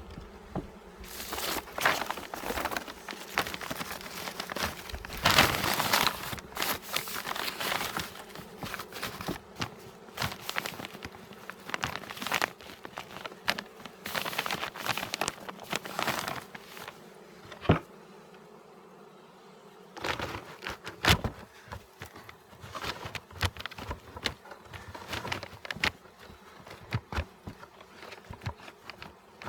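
Honeybees buzzing in a steady hum, overlaid by repeated rustling, crinkling and sharp knocks from the hive being handled.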